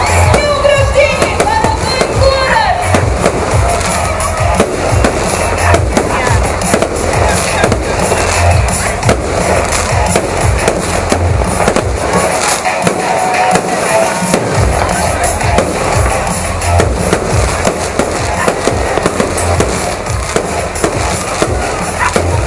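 Fireworks display going off: rapid, continuous bangs and crackles with hardly a break.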